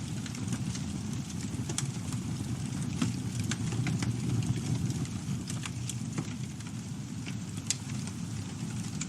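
Campfire burning: a steady low rumble from the flames, with irregular sharp crackles and pops of burning wood. A louder pop comes about three seconds in and another near the end.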